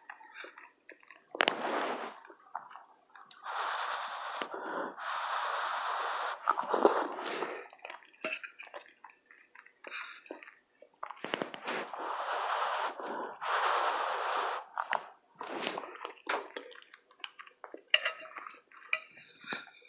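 Close-up eating sounds: chewing and breathing in long stretches of noise, with scattered clicks of cutlery and dishes.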